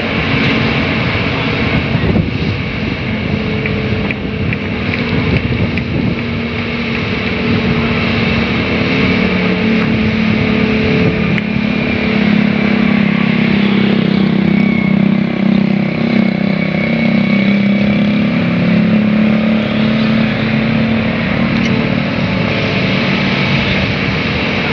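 Engine running steadily, with a hum that grows louder and slightly lower for several seconds in the middle.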